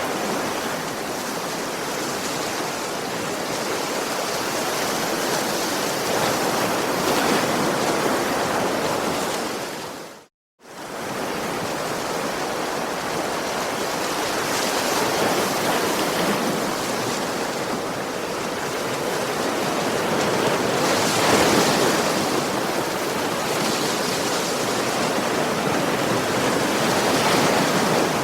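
Sea waves washing onto a beach: a continuous rush of surf that swells every several seconds as waves break. About ten seconds in, the sound cuts out to silence for a moment and then returns.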